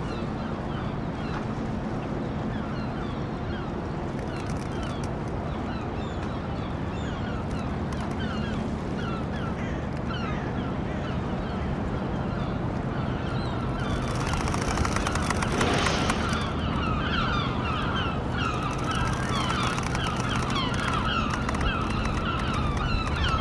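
Dockside ambience: many birds calling in short squawks over a steady low machine hum. The calls grow thicker and louder about two-thirds of the way through.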